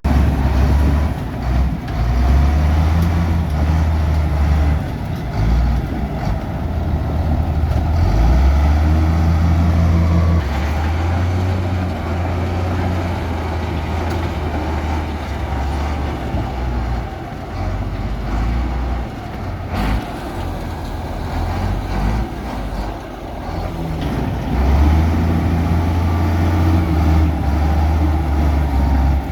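Diesel engine of heavy earthmoving machinery running under work, a low drone that swells and eases several times.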